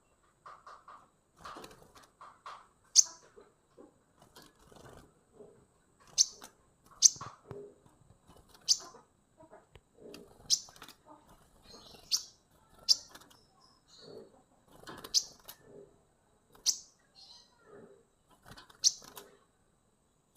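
A 15-day-old young songbird calling: loud, sharp high chips every one to two seconds, with softer, lower chirping in between.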